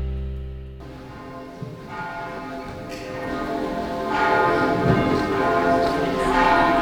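Church bells ringing, several bells pealing together in a dense clash of ringing tones that grows louder after about four seconds. Just before that, the tail of a long ringing note dies away and is cut off abruptly about a second in.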